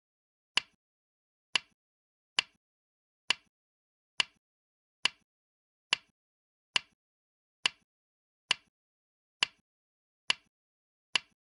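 Go stones being placed on the board, one sharp click a little under every second with silence between. These are the stone-placement sounds of a game record being played back move by move.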